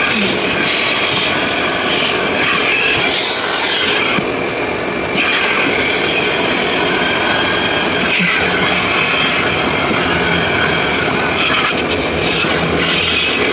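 Car wash equipment running: a loud, steady rushing machine noise that dips and changes briefly about four seconds in, then carries on.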